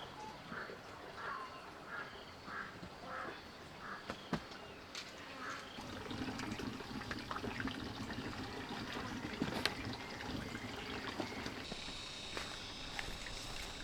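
A frog calling in even pulses, about one every half second or so, which fade out a few seconds in. Then water trickling and splashing with small clicks, and a steady high insect drone comes in near the end.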